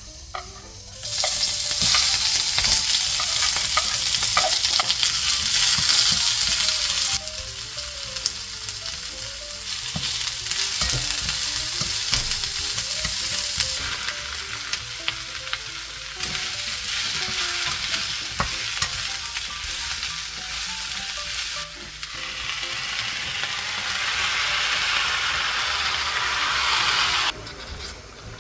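Food sizzling as it is stir-fried in a hot pan, heard in several edited takes that cut in and out abruptly.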